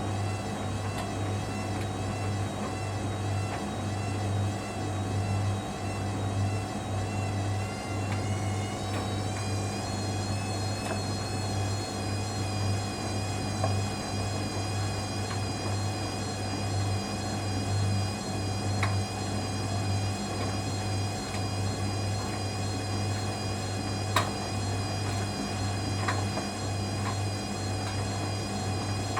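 Hoover Dynamic Next washing machine motor speeding up in spin over a low pulsing drum hum: its whine steps up in pitch about nine seconds in and starts climbing again near the end as the drum ramps toward 300 rpm. A single sharp click comes about 24 seconds in.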